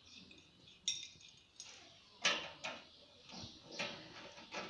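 Small metal parts clicking and clinking as boiler rods and washers are handled and fitted: about six short, sharp taps at uneven intervals, the loudest a little past halfway.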